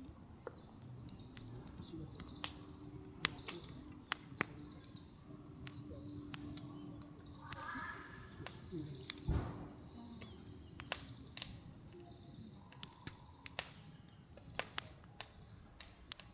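Irregular sharp clicks and knocks, about one or two a second, with faint bird chirps behind them.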